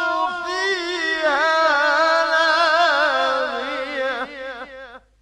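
A male Quran reciter's voice chanting a long, drawn-out phrase of tajwid recitation, the pitch winding up and down in melismatic ornaments. It fades and stops about five seconds in.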